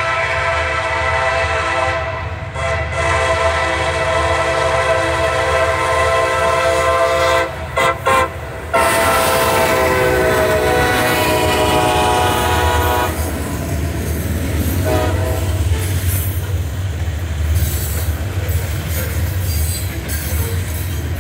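CSX freight train's lead SD70MAC locomotive sounding its air horn in long blasts with short breaks for the grade crossing. The horn's pitch drops as the locomotive passes about nine seconds in. After that the locomotives and covered hopper cars rumble and clatter past on the rails.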